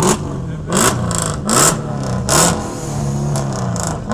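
A vehicle engine being revved in four quick blips, its pitch rising and dropping with each, then running steadier.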